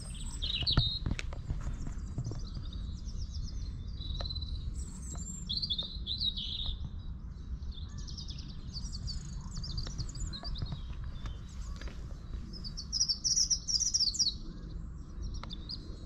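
Songbirds singing and chirping in short, repeated phrases, with a louder run of song about thirteen seconds in, over a steady low rumble.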